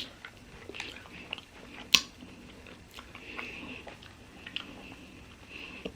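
A person chewing a mouthful of Butterfinger ice cream, with soft wet mouth sounds and small clicks, and one sharp click about two seconds in.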